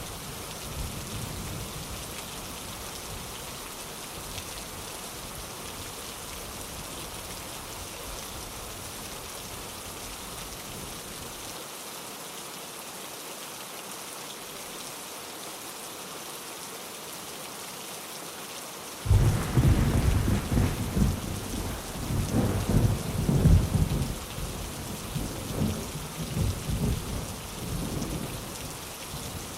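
Steady heavy rain falling, then about two-thirds of the way through a thunderclap breaks in suddenly and rolls on in rumbling waves for several seconds before fading.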